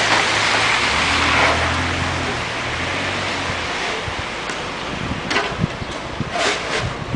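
Snowy city street ambience: a vehicle engine hums low and steady for the first few seconds over a constant rushing noise like wind on the microphone or traffic, then a few short, sharp scraping or knocking sounds near the end.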